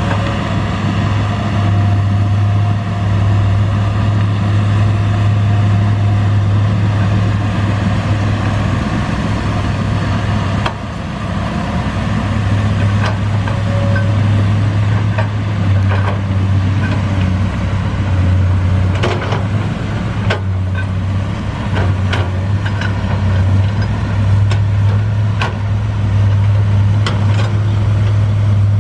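Komatsu hydraulic excavator's diesel engine running with a steady low drone, dipping briefly about ten seconds in. From about halfway on come scattered sharp knocks and clanks.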